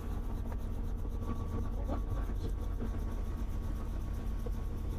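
Helicopter engine and rotor running steadily, a low, constant rumble with a fast, even pulsing.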